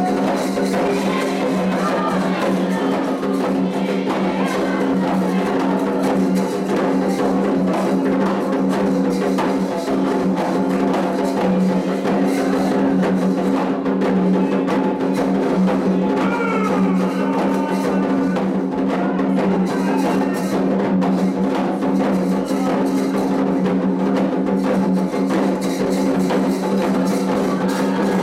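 Candomblé ritual music: atabaque hand drums played in a steady, continuous rhythm with a wood-block-like percussion line, and voices singing over it at the start and again about halfway through.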